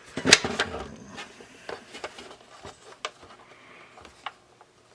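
Small parts being handled during a repair: a brief clatter just after the start, then scattered light clicks and taps.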